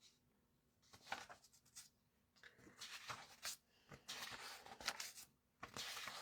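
Faint, irregular rustling and sliding of paper pages, several short scrapes and swishes, as a catalogue is leafed through.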